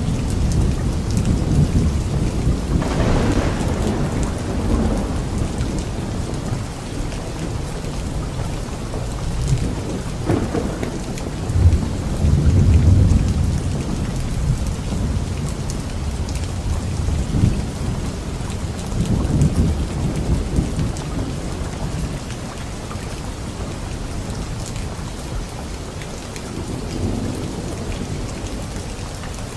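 Steady rain falling with rolling thunder: deep rumbles swell and fade several times, the loudest a little before halfway through.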